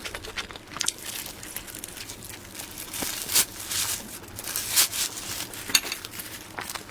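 Close-miked eating of soft cream-filled cake rolls: a run of sharp wet mouth clicks and short rustling, squishing noises, loudest a little after three seconds and again near five seconds.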